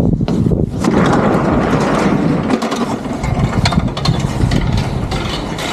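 Dryer vent cleaning equipment running in a vent duct: a steady, dense rattling and clattering, loudest in the first second or so.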